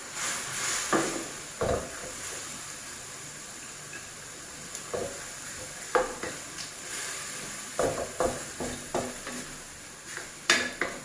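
Minced pork and vegetables stir-frying in a hot pan: a steady sizzle, with the spatula scraping and knocking against the pan at irregular moments, more often near the end.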